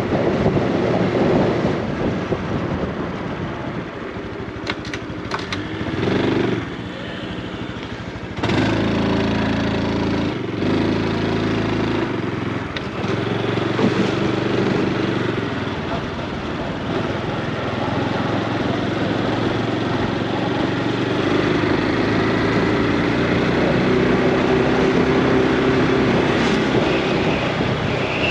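Honda Super Cub C125's single-cylinder four-stroke engine and exhaust running under way, the note rising and falling with the throttle. It drops quieter for a few seconds about a quarter of the way in, then picks up sharply again.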